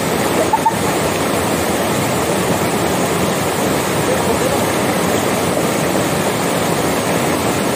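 Waterfall pouring into its pool, a loud steady rush of falling water, with faint voices in the background.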